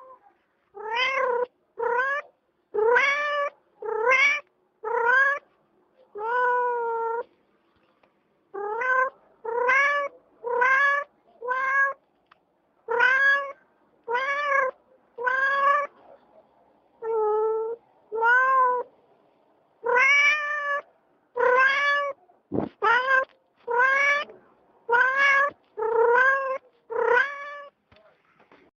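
A cat meowing over and over: some two dozen short meows, about one a second, each rising in pitch, with a short break about a quarter of the way in.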